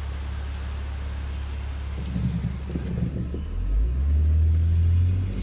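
A car's engine and tyres on a wet road, heard from inside the car: a steady low hum under a hiss. About three and a half seconds in, the engine note rises and grows louder as the car accelerates.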